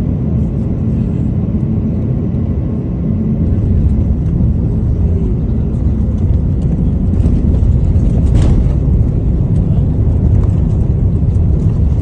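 Steady low roar of an Airbus airliner's engines and airflow heard in the cabin, growing a little louder about four seconds in, with a brief click near eight seconds.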